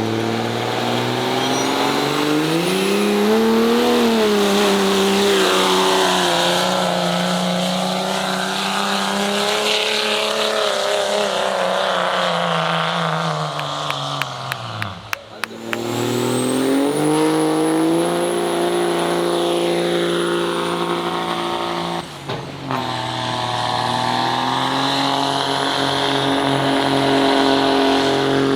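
A competition pulling vehicle's engine at high power, its pitch rising and falling as it is worked through a pull, with a high whistle climbing and fading above it. The sound cuts out briefly about halfway through and again later.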